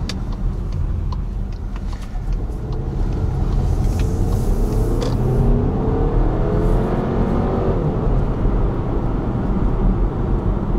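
Skoda Kodiaq's 2.0 TSI turbocharged four-cylinder petrol engine (180 hp) under hard acceleration, heard from inside the cabin. Its note rises steadily in pitch from about four seconds in to nearly eight seconds in, over a constant bed of road and tyre noise.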